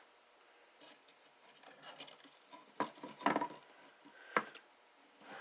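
Copper tweezers picking up a freshly soldered silver pendant: light metallic scraping with a few sharp clinks, the loudest about three seconds in and another near the end.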